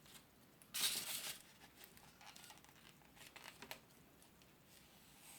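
Faint crinkling and rubbing of a styrofoam tray being handled and marked on a table, with one short louder scrape about a second in and a few light clicks after.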